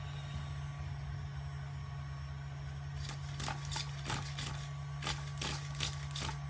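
Steady low hum, with a scattered run of light clicks and knocks starting about halfway through, as of small parts being handled.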